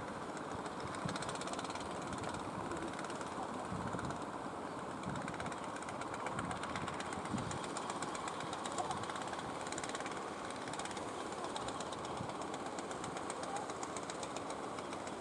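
Fishing boat engines running, a steady mechanical din.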